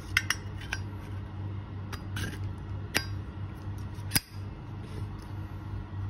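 Zippo lighter being handled: a string of sharp metallic clicks and clinks from the lid and case, the loudest about four seconds in.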